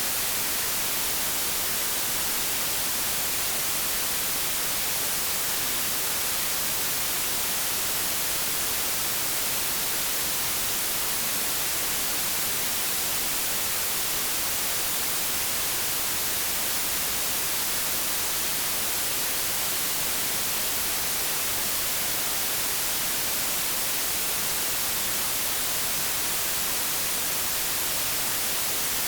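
White noise: a steady, even hiss of static, brightest in the high end and unchanging throughout.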